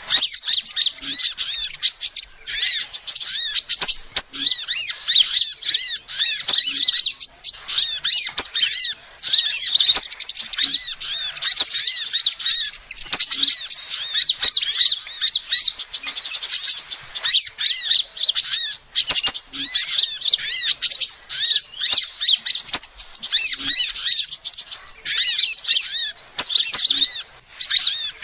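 Female sunbird calling: rapid high chirps run into trills, almost without pause, broken by short gaps every few seconds.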